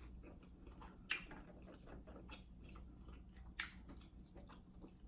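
Close-up, quiet chewing of buttered king crab meat with small wet mouth clicks, and two louder sharp crackles, about a second in and again a little past the middle.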